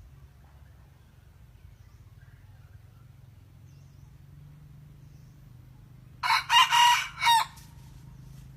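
A junglefowl rooster crows once, about six seconds in: a short crow of about a second and a half in four quick pulses, over a faint low hum.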